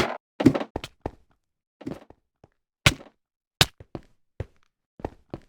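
An irregular series of knocks and thuds, more than a dozen, with the loudest and longest near the start.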